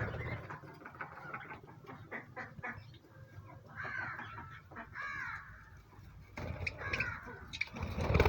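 Pet cage birds calling with short, repeated chirps: a run about four seconds in, another about five seconds in and more near seven seconds. Scattered light clicks and taps sound in between.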